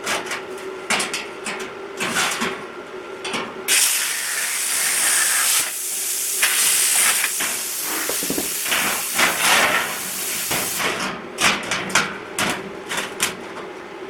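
Plasma cutter cutting steel: a loud steady hiss of air and arc lasting about seven seconds, starting about four seconds in. Sharp metallic clicks and knocks come before and after it.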